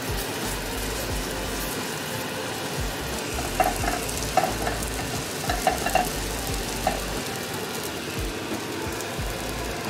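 Grated cheese sizzling as it melts in a hot non-stick frying pan, a steady frying hiss, with a few short taps of a spatula against the pan around the middle.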